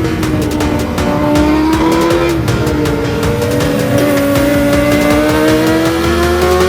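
Kawasaki ZX-25R inline-four engine running at high revs through a Lone Rider aftermarket exhaust. Its pitch dips slightly, then climbs steadily through the second half.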